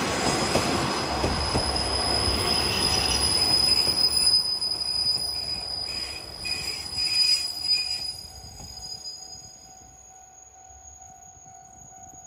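Train passing, with a high steady wheel squeal over the rumble of the cars, fading away after about eight seconds.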